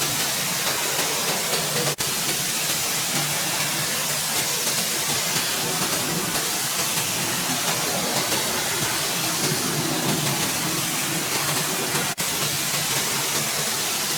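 Steady hiss of a pressurised cleaning spray, with a low machine hum beneath it, broken twice by very short gaps, about two seconds in and near the end.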